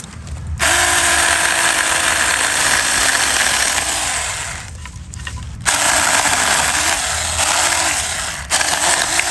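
Saker mini cordless electric chainsaw running and cutting, with its motor whine sagging in pitch again and again as the chain bites under load. It runs in three bursts, with a stop of about a second in the middle and a very brief one near the end.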